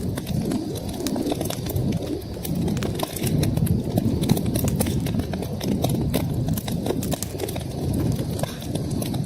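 Wood fire burning in a fireplace: a steady low rumble of flames with many sharp crackles and pops scattered irregularly throughout.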